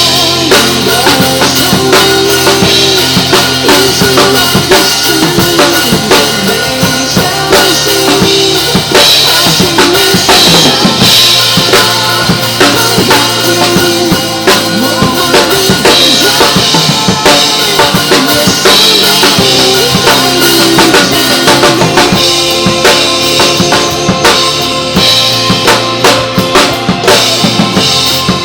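Drum kit played in a steady pop groove, with bass drum, snare and rimshots, over the song's recorded accompaniment. No singing.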